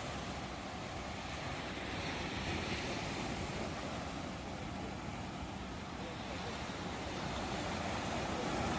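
Ocean surf: waves washing continuously onto a shore, a steady rushing noise that swells gently in loudness now and then.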